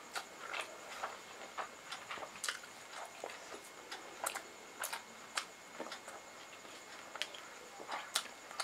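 Close-miked mouth sounds of eating rice and curry: chewing and wet lip smacks in an irregular run of short clicks, several a second.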